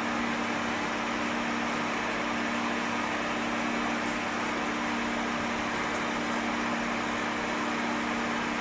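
Pet hair dryer blowing steadily on a low setting: an even rush of air over a constant motor hum.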